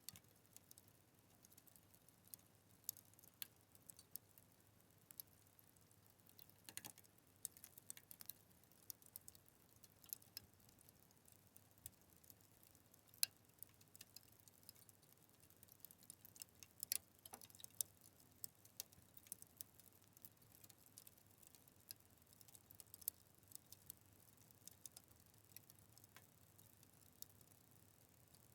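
Fire crackling with sparse, irregular sharp snaps and pops over a faint hiss, a few louder pops standing out among the small ticks.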